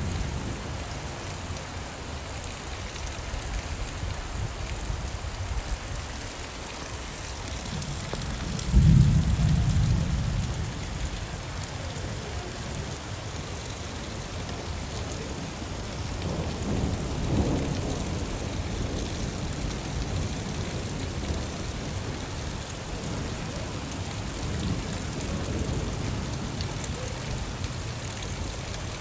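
Steady, heavy rainfall with low rolls of thunder: a loud one about nine seconds in that dies away over a couple of seconds, and a softer rumble a few seconds later.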